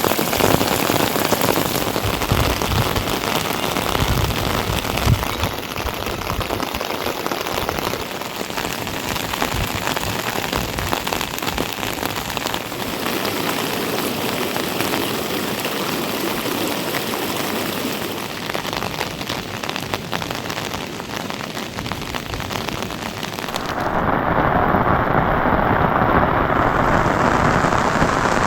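Heavy monsoon rain falling steadily, a dense even hiss of rain on surfaces with a few low rumbles in the first five seconds. About 24 seconds in the sound changes abruptly to a louder, duller rain noise.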